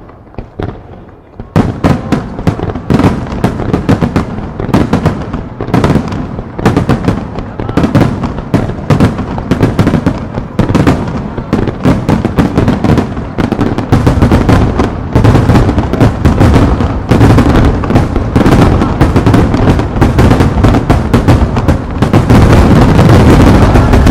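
Fireworks finale: aerial shells bursting in a rapid barrage, starting about a second and a half in. From about the middle on, the bangs crowd into a near-continuous rumble of booms.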